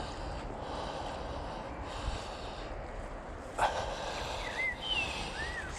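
A man breathing hard outdoors, with one loud snort-like exhale about three and a half seconds in, over steady background noise. A few short, high chirps follow near the end.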